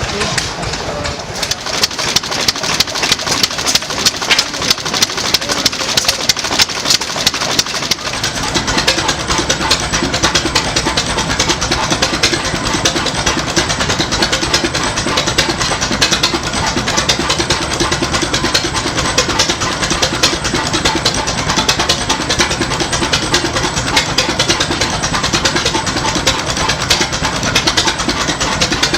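Antique engines running, with a rapid string of regular exhaust beats that grows denser and steadier about eight seconds in.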